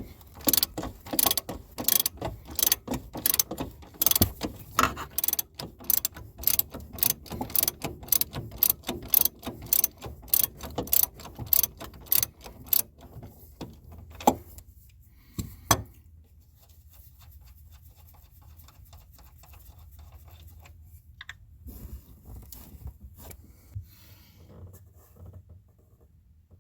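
Hand ratchet wrench clicking as it works the upper strut-mount nuts, about two to three clicks a second for some thirteen seconds, then two last clicks. Faint handling noise follows.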